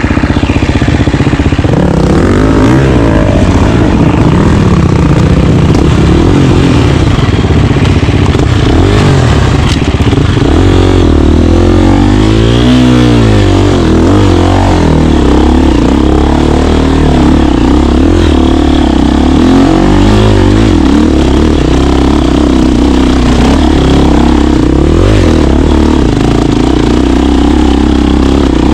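KTM 350 single-cylinder four-stroke dirt bike engine running loud under riding load, its revs rising and falling with the throttle, with a quick rev up and back down about twelve seconds in.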